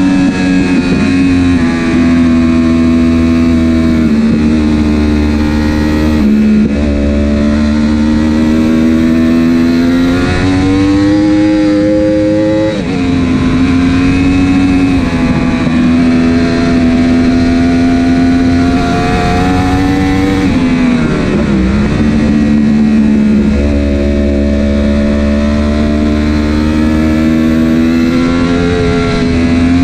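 Racing superbike engine heard onboard at high revs under hard acceleration. The pitch climbs steadily, breaks off suddenly about halfway through, and dips and picks up again about two-thirds of the way in, as the rider shifts and brakes for corners. The bike's quickshifter and autoblip are out, so the gear changes are made with the clutch.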